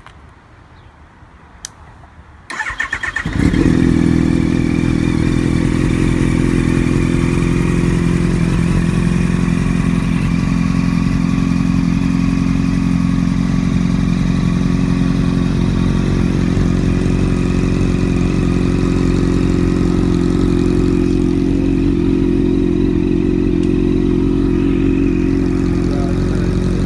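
2011 Yamaha FZ8's inline-four engine through an aftermarket shorty carbon-fibre exhaust: the starter cranks briefly about two and a half seconds in, the engine catches and then idles steadily.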